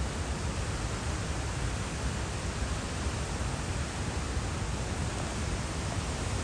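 Steady rushing of a fast-flowing creek swollen by floodwater, an even wash of noise with no separate events.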